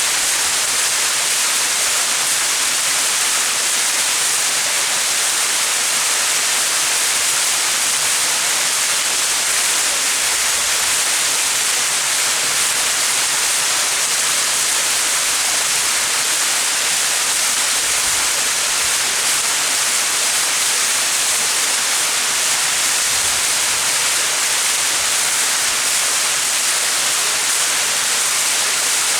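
Small mountain waterfall: water falling and splashing in a steady, even hiss that stays high in pitch.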